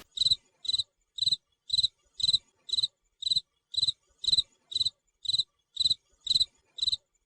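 Cricket chirping: a steady series of short, high-pitched pulsed chirps, about two a second, with dead silence between them.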